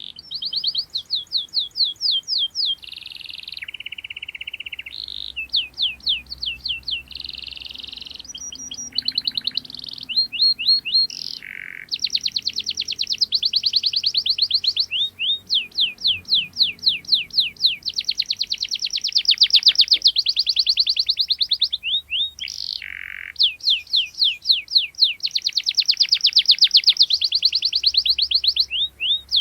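Domestic canary singing a long, near-unbroken song of fast rolling trills, runs of rapidly repeated sweeping notes and sharp chirps, with only brief pauses.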